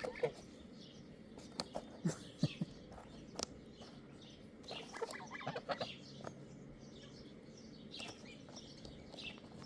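Chickens clucking softly in short, scattered calls, mixed with light taps of beaks pecking on rubber shoes.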